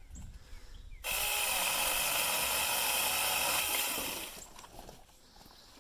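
SAKER mini electric chainsaw running at a steady pitch for about three seconds as it cuts through a tree limb, then winding down.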